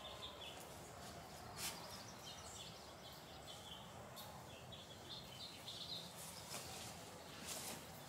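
Faint birdsong: short high chirps repeating over a quiet outdoor background, with a couple of brief soft noises.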